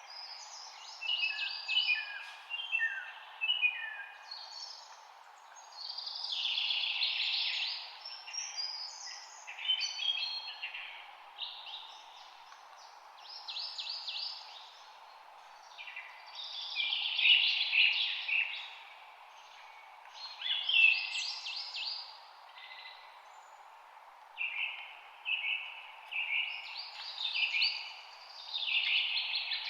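Songbirds singing: bursts of fast, high trills and chirps every couple of seconds, some phrases repeated, over a faint steady background hiss.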